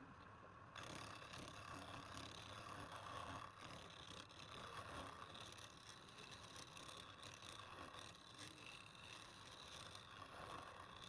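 Wood lathe running with a steady mechanical noise that grows louder and brighter about a second in.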